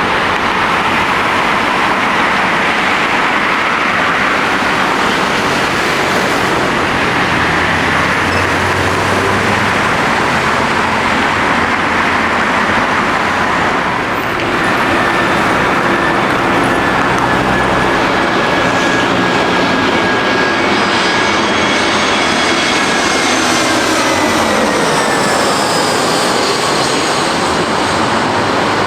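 Airliner jet engines running loud and close. About halfway through, an Airbus A320 comes in to land, and its engine whine slides down in pitch as it passes.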